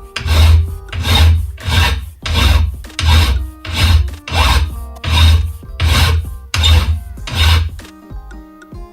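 Rasping strokes of hand abrading worked on a rusty old knife, about ten even back-and-forth strokes a little over one a second, stopping about eight seconds in.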